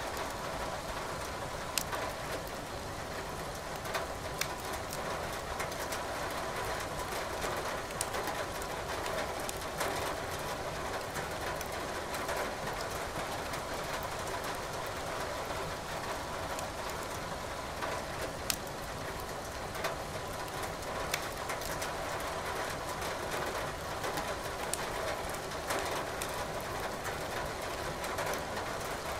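Steady rain hiss mixed with a wood fire burning in a fireplace, whose logs give sharp single crackles and pops every few seconds.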